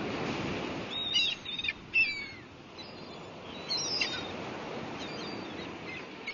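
Birds chirping in short, sliding calls, a cluster about a second in and another around four seconds, over a steady wash of sea surf that gradually fades.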